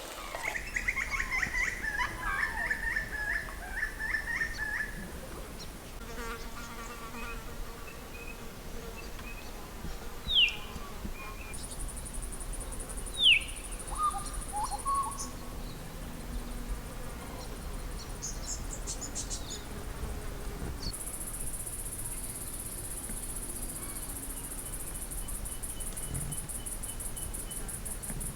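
Night insects trilling in high, rapid pulses that come and go, the longest stretch running through the last third. Twice, a short call falls in pitch.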